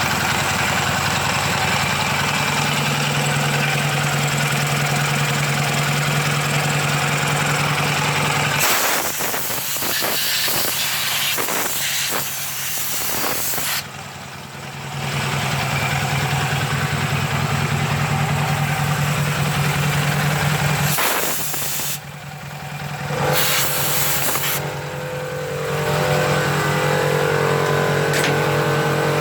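K750M motorcycle's flat-twin side-valve engine running with a steady note; twice, about nine seconds in and again about twenty-one seconds in, the steady note breaks off for a few seconds and gives way to a rougher, irregular noise before it returns.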